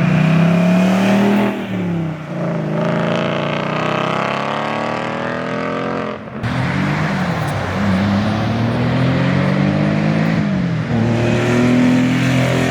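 A performance car engine revved hard several times, the pitch climbing and falling with each rev, with a longer climb as the car accelerates away.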